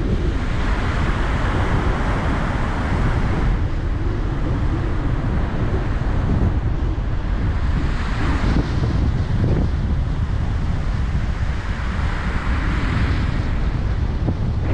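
Surf washing onto the beach under a strong north wind, the wind buffeting the microphone with a constant low rumble. The hiss of the waves swells three times: near the start, about eight seconds in, and about twelve seconds in.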